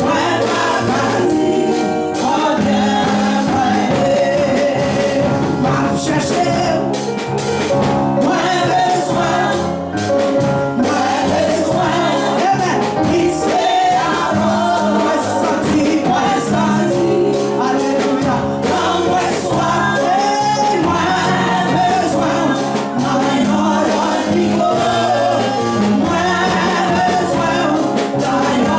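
Live gospel music in church: a group of voices singing over a band, with percussion keeping the beat.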